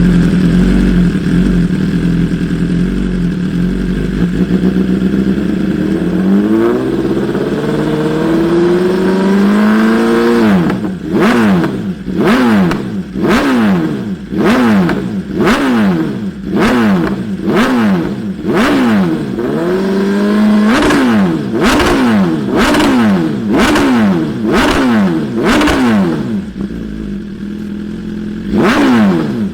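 2020 BMW S1000RR inline-four engine breathing through an Arrow Evo Competition titanium full-system exhaust: idling steadily, revving up slowly about six seconds in, then a run of quick throttle blips about once a second.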